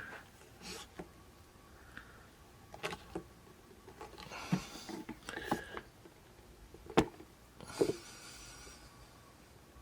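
Handling noise from a camera being raised and repositioned: scattered clicks and knocks with a few brief rustles, the sharpest knock about seven seconds in.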